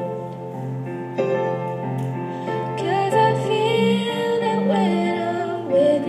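Female voice singing a slow, tender ballad over piano accompaniment, holding long notes.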